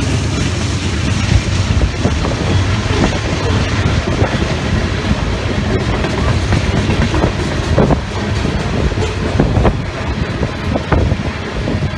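A loaded Norfolk Southern coal train rolling past on the upgrade. A low diesel locomotive drone is strongest in the first few seconds, then the clicking and clacking of steel wheels over rail joints under the loaded hoppers grows more frequent, with wind rushing on the microphone throughout.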